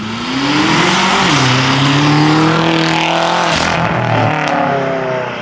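Tuned BMW M5's twin-turbo V8 accelerating hard. The revs climb and drop sharply at gear shifts about a second in and again about three and a half seconds in, over a loud rushing noise.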